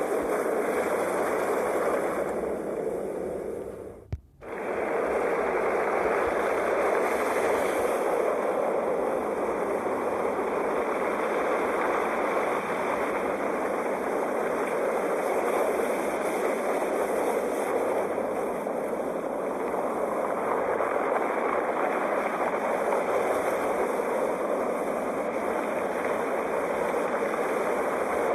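Sea waves washing on a shore in a continuous, even rush of surf. About four seconds in the sound drops out for a moment with a click, then comes straight back, like a splice in a looped recording.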